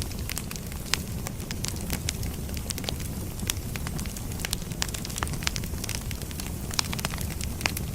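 Firewood burning, with a steady low rumble and frequent sharp, irregular crackles and pops from the logs.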